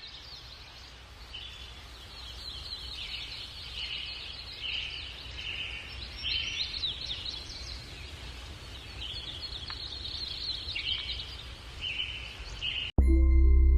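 Many birds chirping and calling at once, quick overlapping chirps and trills, over a steady low rumble. Music cuts in abruptly near the end.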